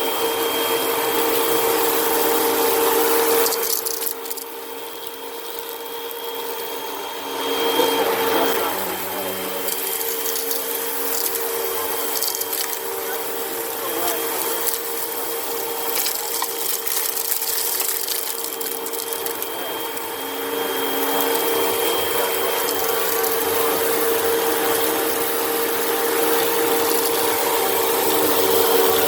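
Vacuum cleaner motor running with a steady whine over a hiss of rushing air, with scattered clicks of sand and debris being sucked up. The sound drops about four seconds in and comes back up a few seconds later.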